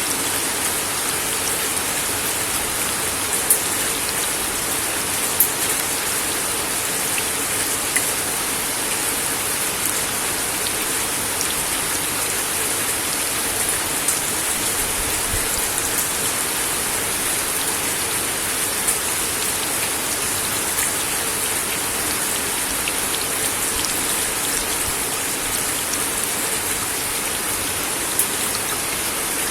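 Steady rain falling on a wooden deck, an even hiss with scattered louder individual drops ticking on the boards.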